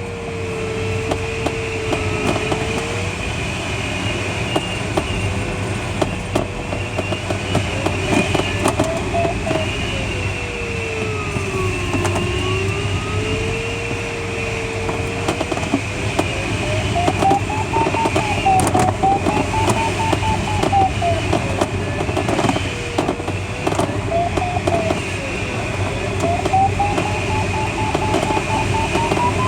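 Glider audio variometer in a Schleicher ASK21 cockpit, over the steady rush of airflow. Its tone slides down and back up in pitch during the first half, then in the second half rises higher in arcs and breaks into beeps: the vario signalling the glider climbing in lift.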